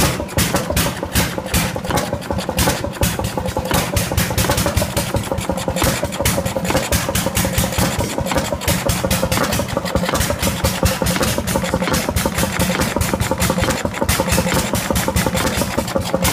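Antique Moline Pump Company Eli stationary engine running, a steady fast train of exhaust beats.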